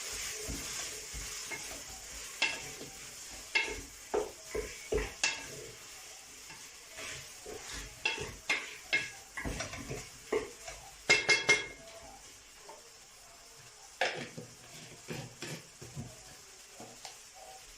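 A spoon knocking and scraping against a cooking pot while food is stirred, over a faint sizzle that fades out in the first few seconds. A quick run of clinks comes a little past the middle.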